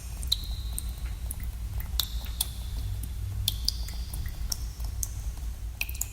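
Water drops falling at irregular intervals into pooled water in a cave. Each lands as a sharp plink, most with a brief high ringing tone, about half a dozen over a few seconds, above a steady low rumble.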